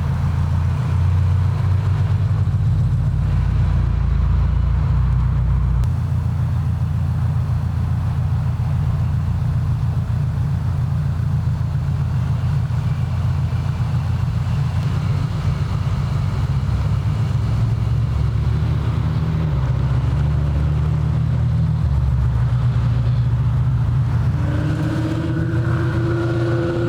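Car engine idling close by: a deep, steady, pulsing rumble that shifts slightly in pitch a couple of times.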